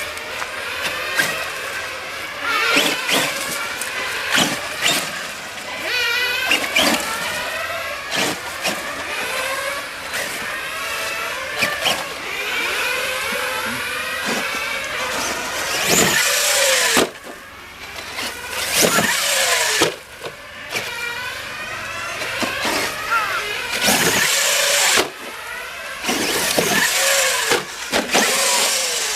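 Brushless electric motor of a Kyosho Mad Crusher VE RC monster truck running on 4S, whining up and down in pitch with the throttle, with repeated knocks and loud bursts of hiss from the truck driving over the ground.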